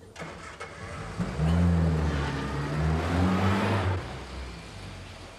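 Classic Mini's small four-cylinder engine revving up twice, its pitch rising each time, then dropping back to a quieter run about four seconds in.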